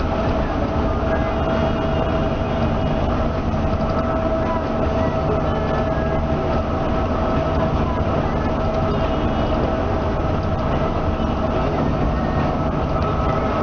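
Cabin noise inside a moving Scania K360ib coach: steady engine and road rumble with a constant hum running through it.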